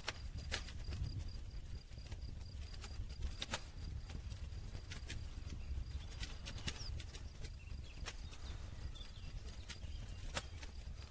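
Wood campfire crackling: irregular sharp pops and snaps, several a second at times, over a steady low rumble of burning.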